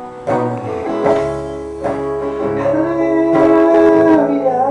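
Live band playing a worship song: acoustic guitar and piano chords ringing through the instrumental turn between verse and chorus.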